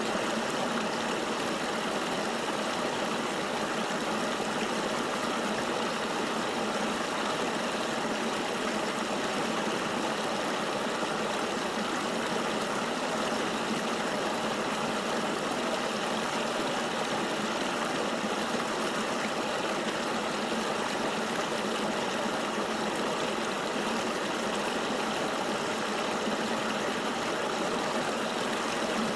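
Flowing river water: a steady, even rush with little deep rumble and no separate splashes or drips standing out.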